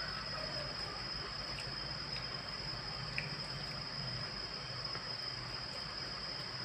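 Faint wet chewing and mouth sounds of someone eating, with a few small clicks, over a steady hiss and a high thin whine.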